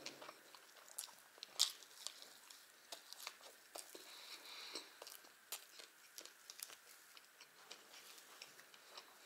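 A person chewing a mouthful of thin pancakes (blini) with strawberry jam, faint and close, with many small irregular wet mouth clicks and one louder click about one and a half seconds in.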